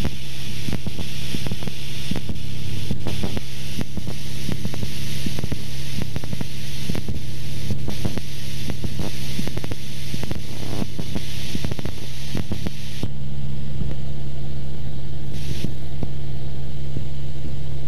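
Cessna 172's piston engine and propeller droning steadily, heard inside the cabin, with airflow hiss and crackling on the microphone. About thirteen seconds in, the hiss and crackling drop away abruptly while the engine drone carries on unchanged.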